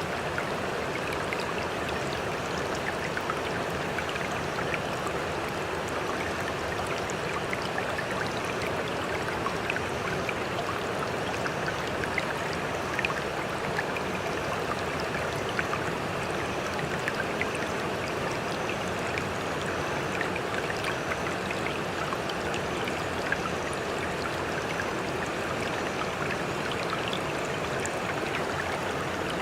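Water trickling and lapping, a steady rush dotted with many small drips and splashes.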